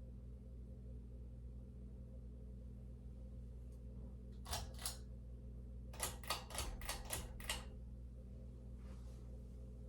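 Emerson Legend ceiling fan running with a low, steady motor hum. Sharp clicks cut in partway through: two, then a quick run of six.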